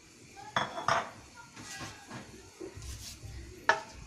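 Metal utensils clinking against a cooking pan and bowl: a few sharp clinks with a short metallic ring, about half a second in, near one second and again near the end, with quieter scraping between, as whole garam masala spices go into the pan.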